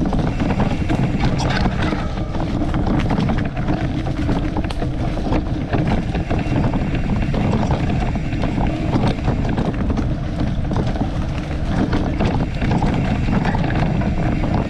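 Wind buffeting the microphone of a moving bicycle: a steady low rumble with scattered light ticks and rattles.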